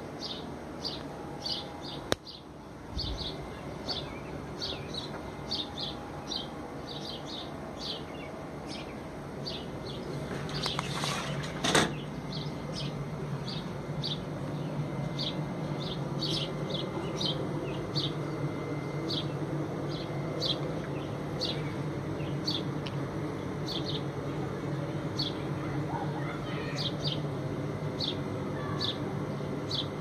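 Small birds chirping over and over, short high chirps about one to two a second, over a steady low hum. A sharp click comes about two seconds in, and a brief louder rushing sound just before twelve seconds.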